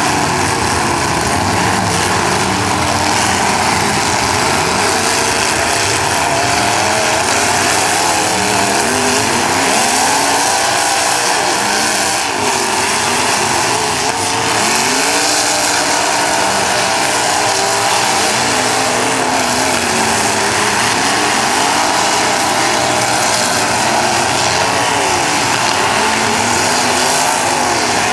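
Several demolition derby cars' engines running at once, each revving up and down so that their pitches overlap and rise and fall continuously.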